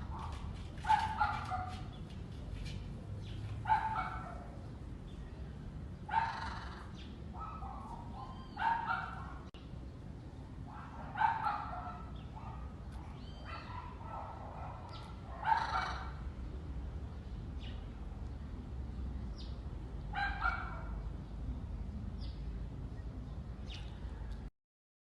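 A parrot's harsh calls, repeated every few seconds, with a few short whistles in between; the sound cuts off abruptly near the end.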